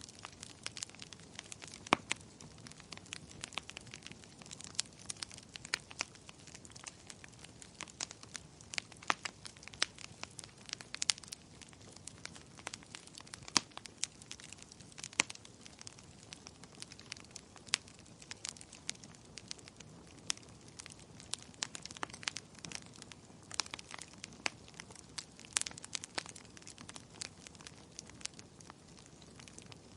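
Wood fire in a fireplace burning and crackling, with irregular sharp pops over a soft low hiss.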